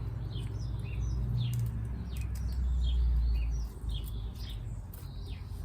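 Small birds chirping, many short high calls scattered throughout, over a steady low rumble that drops away about two-thirds of the way through.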